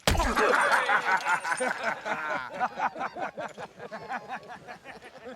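A sudden heavy thump, then several men's voices laughing and jeering together, trailing off after about two and a half seconds.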